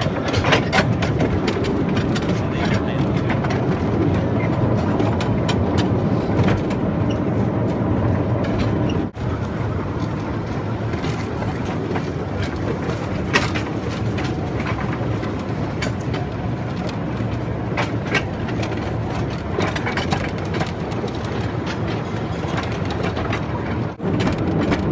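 Small tourist train rolling along its track: a steady rumble with frequent irregular clicks and clatter from the cars. The sound drops out for an instant about nine seconds in and again near the end.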